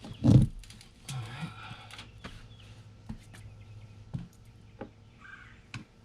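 A heavy thump just after the start, then a brief rattle and scattered small metal clicks and clinks: lug nuts being handled and threaded onto the studs as a truck wheel is mounted back on the hub.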